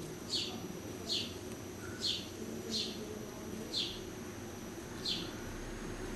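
A small bird calling a short, high note that falls in pitch, six times at intervals of about a second, over a steady low background hum.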